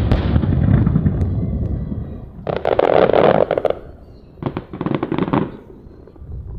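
Aerial fireworks bursting: a loud boom at the start that rumbles away over about two seconds, then two bursts of dense crackling about two and a half and four and a half seconds in.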